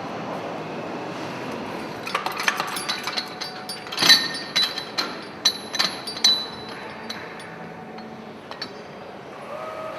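Steel parts clinking and knocking together, about a dozen sharp, ringing metallic clinks over a few seconds, as hydraulic stud-tensioning gear is taken off a diesel engine's cylinder head, over a steady background hiss.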